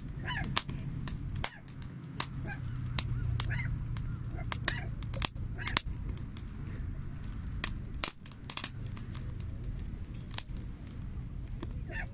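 Wood campfire crackling: frequent sharp pops and snaps over a steady low rumble of the burning fire, with a few short squeaky whistles between the pops.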